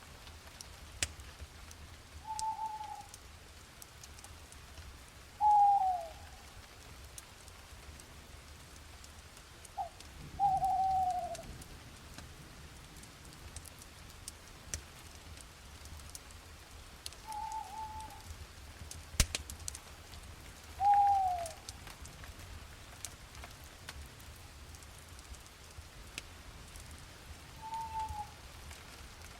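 Owl hooting over light steady rain: six short hoots spaced a few seconds apart, the louder ones sliding down in pitch. Scattered raindrop ticks, with one sharp drip about nineteen seconds in.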